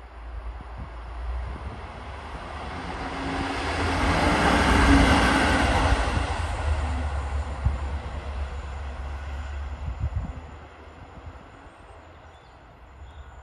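A train passing on the main line, its rumble and rail noise swelling to a peak about five seconds in, then fading away, with a few sharp knocks as it goes.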